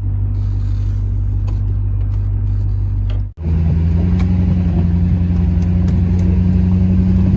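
Steady engine and road drone of a motor vehicle being driven at an even speed. About three seconds in, a cut switches to a similar steady drone slightly higher in pitch.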